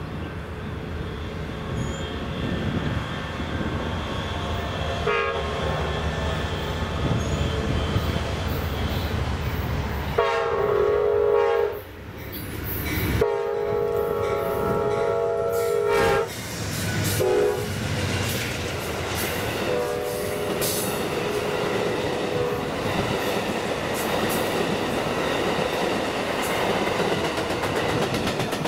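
Amtrak Silver Meteor passenger train approaching and running through, its diesel locomotive rumbling and the wheels clicking over the rail joints. The locomotive's chime horn gives a short toot, then two long blasts, a short one and a fainter long one: the grade-crossing signal.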